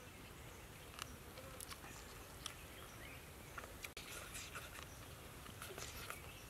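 Faint eating sounds: soft chewing and scattered small mouth clicks as food is drawn in off bamboo chopsticks, over a low steady background hiss.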